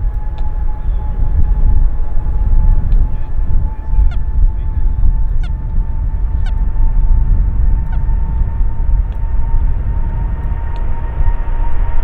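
Jet airliner engines: a heavy low rumble with a steady whine that rises slowly in pitch.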